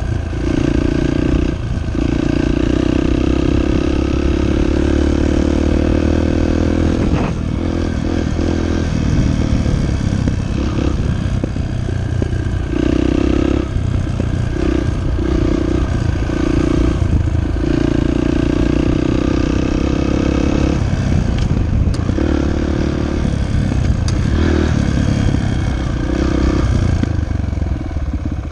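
Dirt bike engine running close by, the throttle opened and shut again and again so that the engine repeatedly revs up and drops back.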